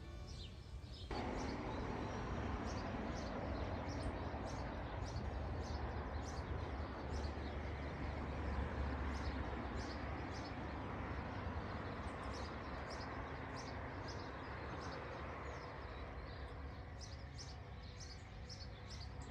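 A small songbird chirping over and over in short, high, falling notes, over a steady rushing background noise that sets in about a second in.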